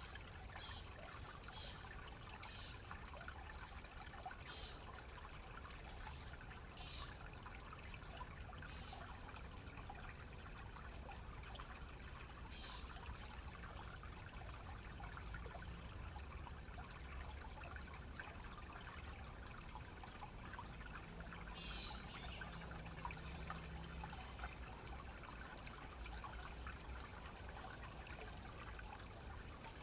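Stream water running and trickling steadily, faint and even, with a few short high-pitched chirps now and then.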